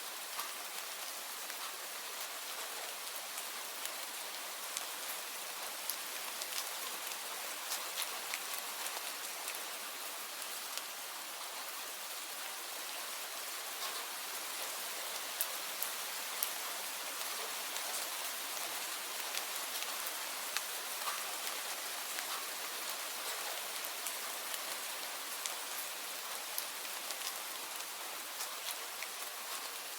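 Steady rainfall: an even hiss of rain with many separate drops ticking through it.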